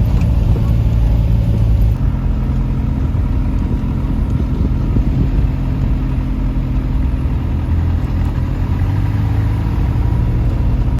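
Motor vehicle engine running steadily with a low, even hum, changing slightly about two seconds in and cutting off abruptly at the end.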